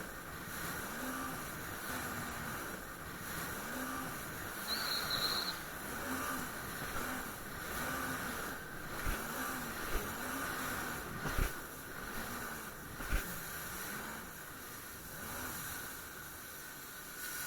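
Jet ski engine running on the water, its pitch rising and falling over and over under a steady hiss of water and wind, with a few sharp knocks in the second half.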